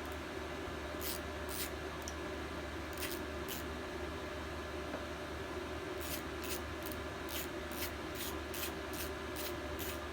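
Hand work on a small engine being torn down: short scratchy strokes, a few at first and then about two a second in the second half, over a steady low hum.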